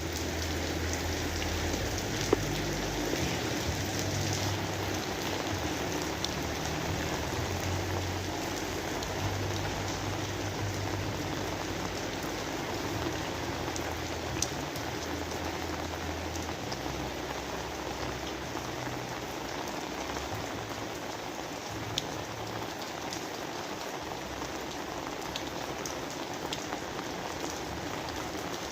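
Steady rain falling, an even hiss with a few sharper drop clicks now and then, and a low rumble underneath for about the first half.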